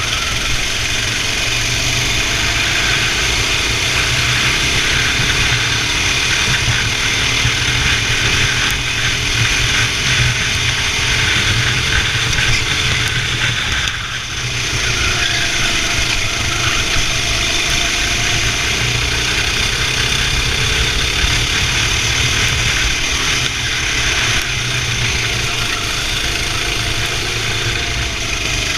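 Indoor racing kart engine running hard, its pitch rising and falling as the kart accelerates and slows through the corners, with a short dip in level about halfway through.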